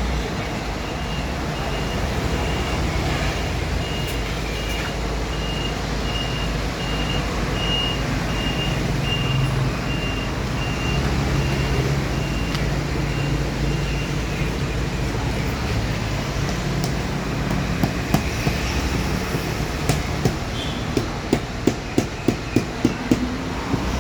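Steady vehicle and machinery noise with a repeating high electronic beep for several seconds, like a vehicle's reversing alarm. Near the end comes a run of fast, even knocks, about three a second.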